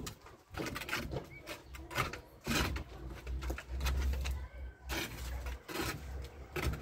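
Stones and gravel knocking and scraping irregularly as they are packed in by hand behind a masonry wall, over a low rumble.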